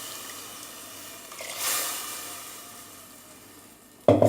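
Masala and chicken sizzling in hot oil in a pan, the sizzle fading away, with a brief louder swell of sizzling about a second and a half in. A sharp, loud clank near the end.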